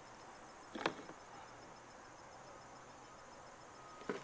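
Faint, steady insect trilling with a pulsing high note, broken by a short sharp sound about a second in and another near the end.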